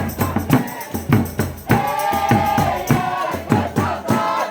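Folia de Reis music: tambourine and drum beating about twice a second, with a voice holding a long note through the middle.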